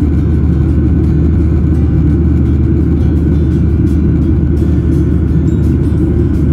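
Steady, loud rumble of a Southwest Airlines Boeing 737's jet engines and airflow, heard inside the passenger cabin.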